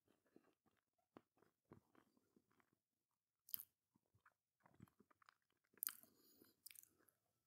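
Faint, close chewing and small mouth clicks of someone eating a soft chocolate muffin, with two short, louder noises about three and a half and six seconds in.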